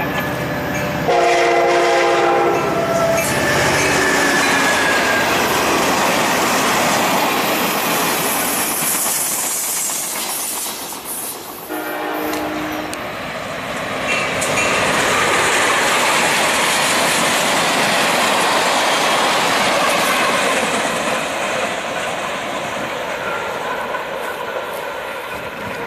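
A train's multi-chime air horn sounds a long chord about a second in, its notes dropping in pitch near the end, and a short chord about twelve seconds in. In between and after, the steady rumble and wheel-on-rail noise of a passing train swells and then fades.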